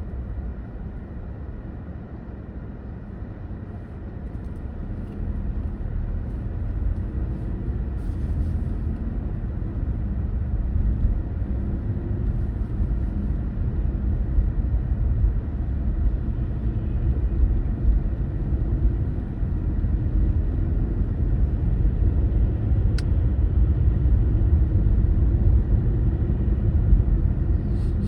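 A car driving, with a low rumble of engine and tyre noise. It grows louder from about four seconds in and holds there.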